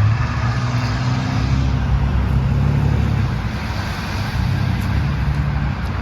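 A motor vehicle's engine running steadily close by, a low engine hum with a little road noise.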